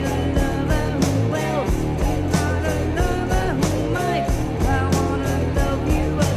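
Early-1970s hard rock recording: electric guitar, bass and drums playing at a steady beat, with a singing voice or bending guitar line over it.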